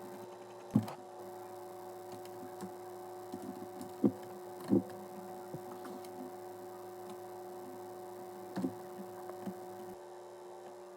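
Steady electrical hum with a few soft knocks, the loudest about a second in and around four to five seconds in. The hum stops near the end.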